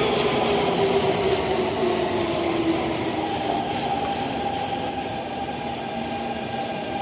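Metro train running, with steady rail rumble and hiss. The motor whine glides downward in pitch over the first three seconds, then settles into a steadier, higher tone as the train eases off.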